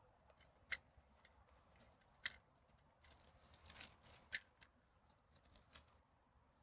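Dry rustling and crackling, with three sharp snaps about a second and a half apart and lighter clicks between them.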